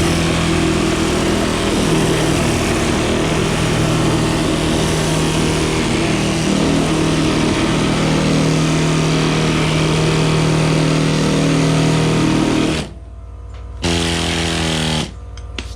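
Power sander running against cured body filler, a steady motor hum under a sanding hiss. It stops about 13 seconds in, runs again for just over a second, then stops.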